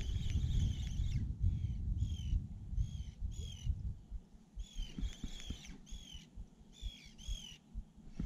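A bird calling over and over in short squeaky notes, about two a second, some run together in small groups, over a low rumble that fades out about halfway through.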